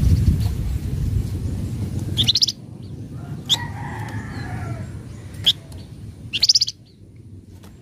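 Flamboyan bird giving short, sharp, harsh chattering calls, four or five of them, two as quick rattling trills, over a low steady rumble of background noise.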